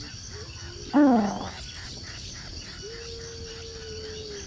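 A loud, short animal call about a second in, arching up then down in pitch, followed by a long steady tone held near the end, over a constant high buzz of insects.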